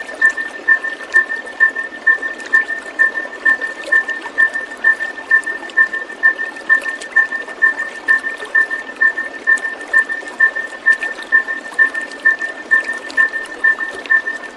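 Steady rushing of flowing water with a short, high two-note chirp repeating evenly about twice a second.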